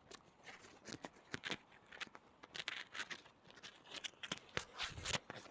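Footsteps crunching in snow, an uneven series of short crunches.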